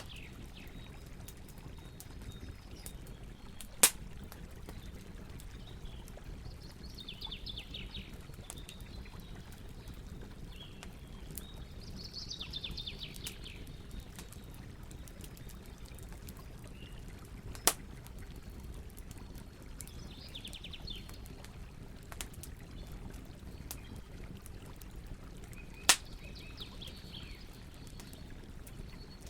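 Campfire burning with a steady low rumble and scattered crackles, and three loud sharp pops from the wood that are the loudest sounds. Birds call in short trilled phrases every few seconds.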